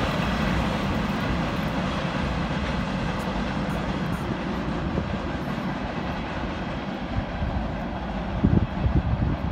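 Freight train of tank cars rolling away on the rails, a steady low rumble that slowly fades, with a few low bumps near the end.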